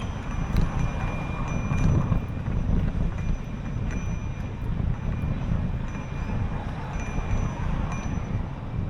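Wind buffeting the microphone while cycling, a steady low rumble. Thin high ringing tones come and go through it.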